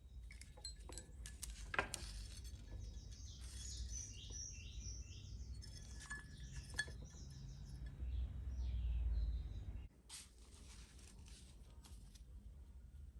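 Light clinks and taps of small metal parts and tools being handled while assembling a model excavator kit, over a low rumble that swells about eight seconds in and cuts off near ten seconds. A quick run of high chirps comes about four seconds in.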